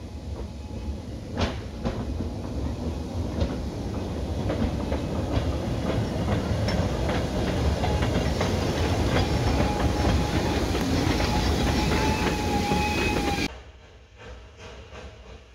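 Narrow-gauge train rolling past, growing louder, its wheels clicking over the rail joints, with a thin steady squeal from the wheels in the latter part. The sound drops away abruptly near the end.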